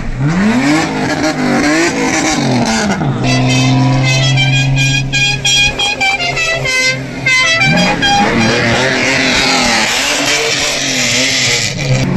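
Car engines revving, rising and falling in pitch, with a steadier held note and a rapid, pulsing horn-like sound in the middle.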